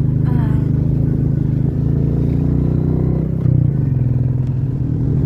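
Royal Enfield Meteor 350's single-cylinder engine running steadily at low revs while the motorcycle is ridden over a rough road.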